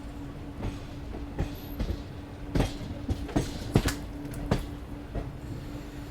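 Koyna Express passenger train's wheels rolling on track and knocking irregularly over rail joints, with about eight clacks, the loudest in the middle. A steady low hum and rumble run underneath.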